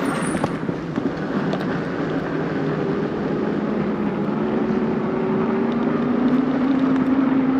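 A motor running with a steady low hum that slowly rises in pitch, over a continuous rushing noise.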